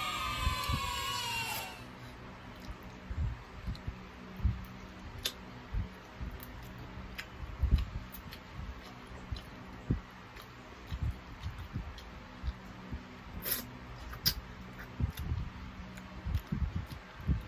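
Close-up eating sounds of chicken feet: scattered small crunches, lip smacks and sticky wet clicks as the feet are pulled apart by hand and chewed. At the start a short, high-pitched cry-like sound rises, holds and falls away over about two seconds.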